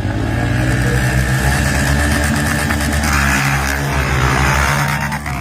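Motocross bike engines revving loudly, rising in pitch in the first second and then holding high.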